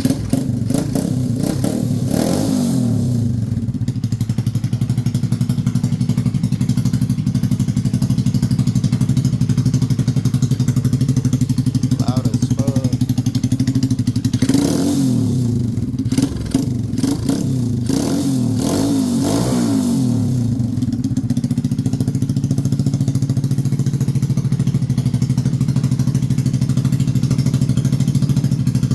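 Venom X21RS 125cc single-cylinder four-stroke engine, on a Nibbi PWK 26 mm carburetor and iStunt exhaust, idling with throttle blips: a quick rev about two seconds in and a run of revs up and back down between about fifteen and twenty seconds in. The new exhaust still has a slight leak, according to the owner.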